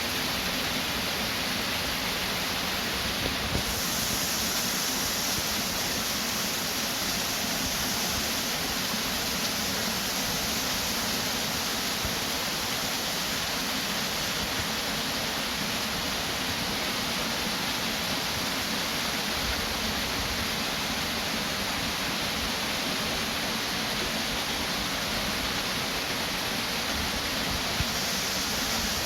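Steady, unbroken rush of flowing water, like a stream or small waterfall, a constant hiss with no pitch.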